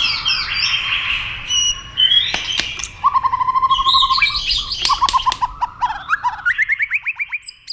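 White-rumped shama singing: varied whistles and chirps with a few sharp clicks, then from about three seconds in a fast run of repeated notes that steps up in pitch toward the end.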